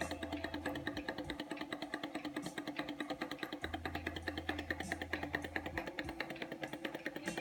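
Small home-built thermoacoustic (laminar-flow) Stirling engine running, a steady rapid ticking of about six strokes a second, with background rock music playing over it.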